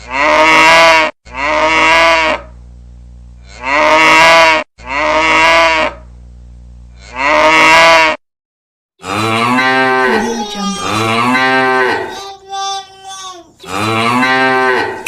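Cow mooing, looped as a phone ringtone: five long moos about two seconds apart, each sliding down in pitch, then a brief silence and a run of further moos in a different pattern.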